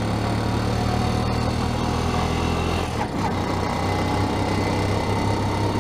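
A vehicle engine idling steadily; its low drone changes slightly about three seconds in.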